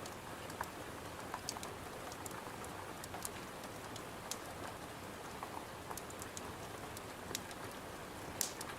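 Rain falling steadily against a window, an even hiss, with scattered sharp ticks and pops throughout; the loudest pop comes near the end.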